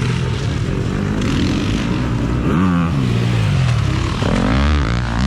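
Four-stroke motocross bike engine revving hard and dropping back several times, its pitch climbing and falling as the throttle opens and closes.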